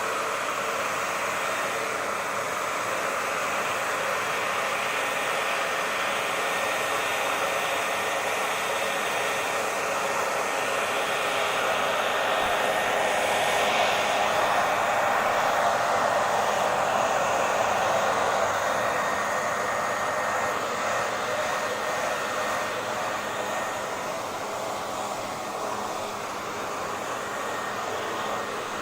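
Hair dryer blowing steadily, an even rushing hiss of air and motor with a faint steady whine in it. It swells a little about halfway through, then eases slightly.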